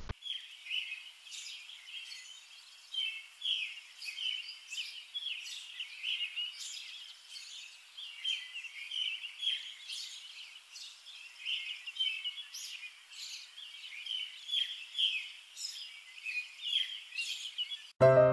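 Small birds chirping, many short calls in quick succession overlapping throughout. Piano music starts abruptly near the end.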